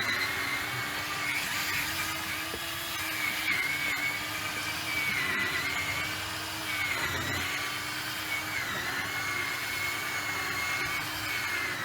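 Cordless drill spinning a polishing pad against a plastic headlight lens, its motor whine dipping in pitch every one to two seconds as it is pressed into the lens.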